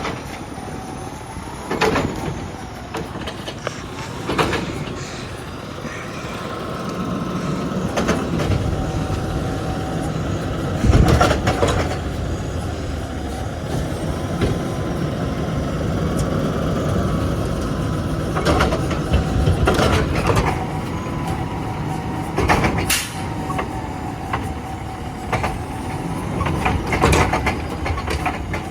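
Garbage truck running, its engine rising about six seconds in, with a steady whine and sharp clanks and bangs every few seconds.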